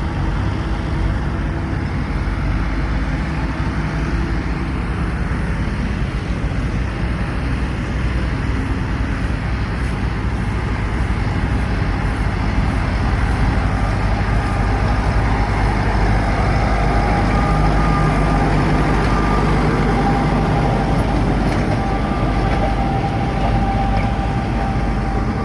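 Tractor engine running steadily, a little louder in the second half.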